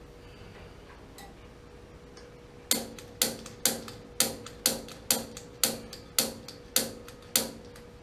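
Piezo igniter clicked about ten times in a row, roughly two sharp clicks a second, each with a short ringing tail, in an attempt to light a gas water heater's pilot that does not catch. A faint steady hum runs underneath.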